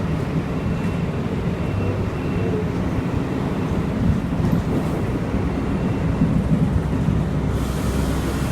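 Steady low rumbling noise, like a vehicle running, with a hiss that grows louder near the end.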